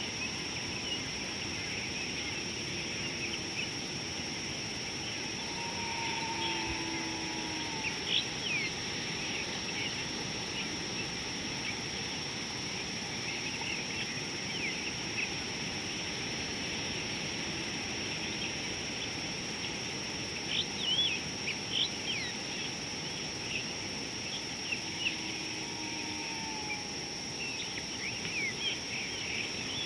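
Outdoor bush ambience: a steady hiss with a constant high-pitched whine, and short quick bird chirps coming in a few brief runs.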